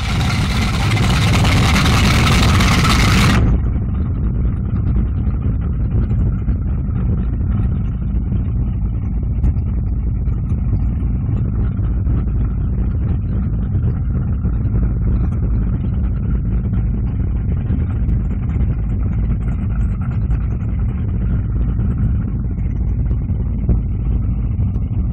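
Mercury boat engine running steadily under way, a low, even engine note. For the first three and a half seconds a loud hiss covers it, then the hiss cuts off suddenly.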